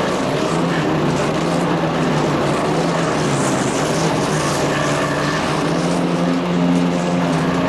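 Wood chipper shredder running steadily, driven by its Kohler CH440 14 HP single-cylinder engine, a steady engine drone over a rushing noise from the cutting drum.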